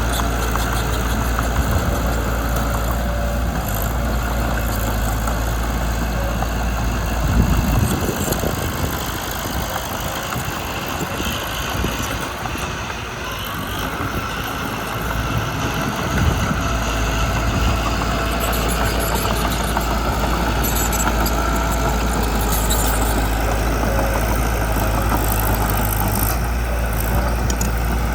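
Diesel engine of a Mitsubishi BD2 bulldozer running steadily; its low rumble eases for several seconds in the middle, then comes back.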